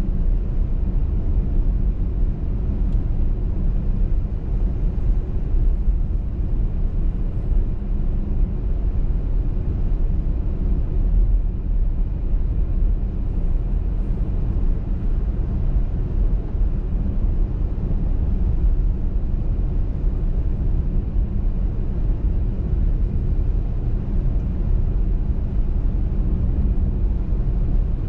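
A moving car's road and engine noise: a steady low rumble with no sudden events.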